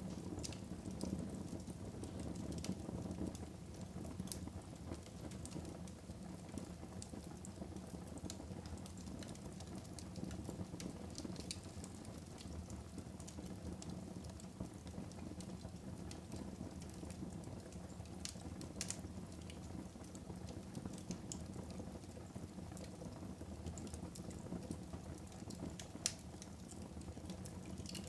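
Wood fire burning in a home fireplace: a steady low rumble of flames with scattered sharp crackles and pops from the burning logs, one of the louder pops coming about two seconds before the end.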